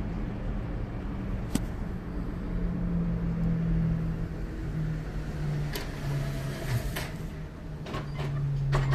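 Road traffic: a vehicle engine hum that shifts in pitch, with a few sharp clicks.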